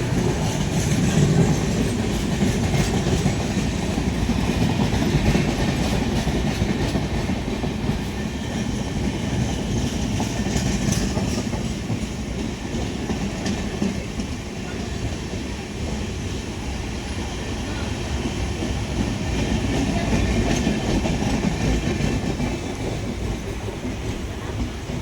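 Passenger train running along the track: a steady rumble of the moving coach with wheels clattering on the rails.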